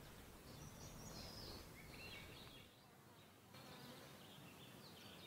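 Near silence: faint outdoor ambience with scattered faint high-pitched chirps.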